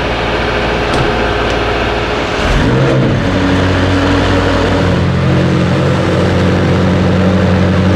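McLaren Senna's twin-turbo V8 starting about two and a half seconds in with a short rising flare, then settling into a steady idle. Before it catches, a steady low hum runs underneath.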